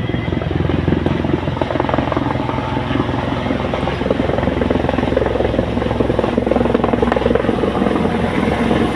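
Helicopter coming in to land close by: a steady, loud rotor and engine noise that grows a little louder.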